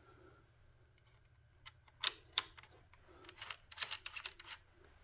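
Light clicks and rattles of small parts being unscrewed and handled at the workbench. Two sharper clicks come about two seconds in, then a quick run of lighter clicks from about three to four and a half seconds.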